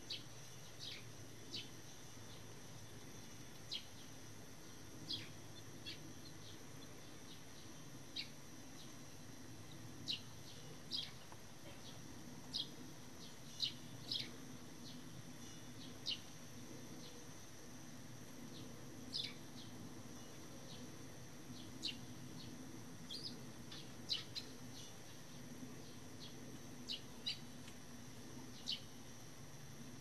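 A bird at a nest under a roof eave giving short, high chirps, single or in quick pairs, every second or two.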